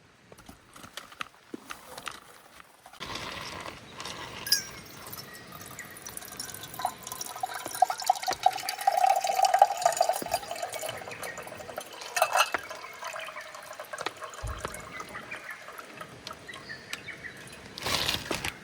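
Water being poured into a container, a pour lasting several seconds. A short noisy burst near the end.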